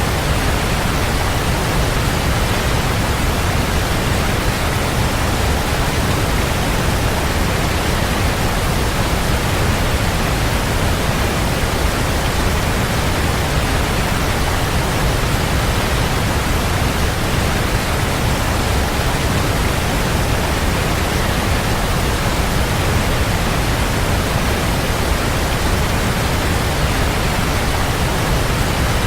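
Waterfall: a steady, unbroken rush of falling water, heaviest in the deep low end, with no change in level.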